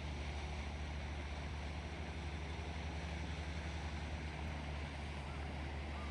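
A boat's engine running with a steady low drone under an even rushing of wind and water.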